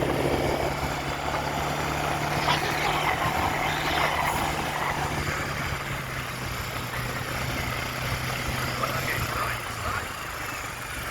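A vehicle engine running steadily at idle, with a low, even hum.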